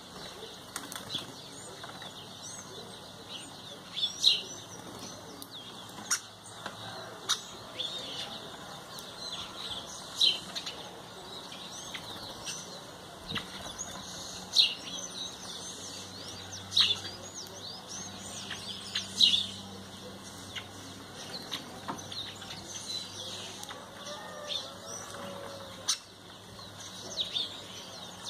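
Wild birds at a feeder chirping: a steady twittering with a loud, sharp call every few seconds.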